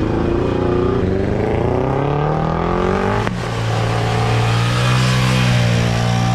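A car engine revving hard under acceleration, its pitch climbing for about three seconds. A sharp crack and a sudden drop in pitch follow as it shifts up, and it keeps pulling at a lower, steadier pitch.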